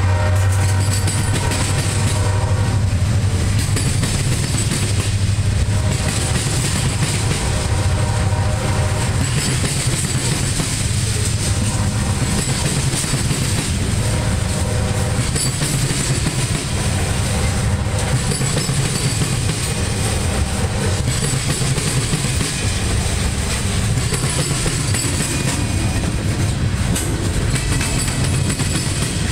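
Freight cars of a long CSX train (covered hoppers and boxcars) rolling past at speed: a steady low rumble with wheel clatter from the cars crossing the rail diamond. A ringing pitched tone comes and goes every few seconds.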